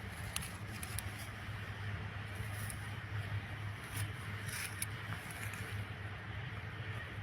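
Steady low wind rumble on the microphone, with a few short scrapes and crackles scattered through it, about a second apart early on and again around the middle.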